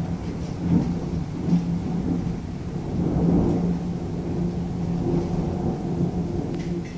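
Thunder rumbling in long rolls that swell and fade, with a steady low hum underneath.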